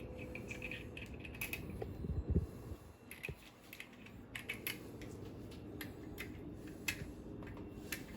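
Small metallic clicks and taps of nuts being fitted and run onto the stern drive's mounting studs by hand and tool, coming irregularly and in short runs, with a duller knock about two seconds in.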